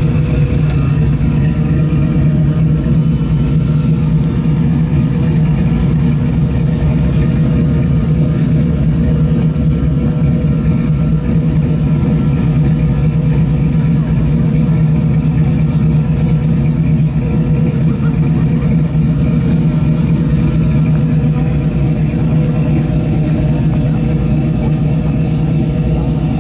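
Vehicle engines running at idle, a constant low drone with a steady hum that does not rise or fall.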